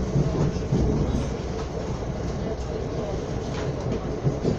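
Serbian Railways passenger train running along the track, a steady rumble heard from inside the carriage, with a few wheel clicks.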